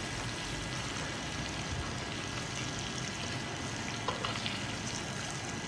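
Green chillies and spices frying in hot oil in a pan, a steady sizzle, while a steel ladle stirs them, with a few faint scrapes about four seconds in.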